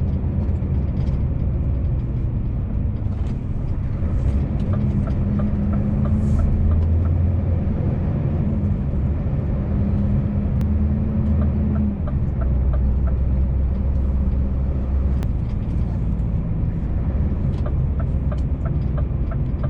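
Scania truck engine running steadily under way, heard from inside the cab, with the engine note shifting about twelve seconds in.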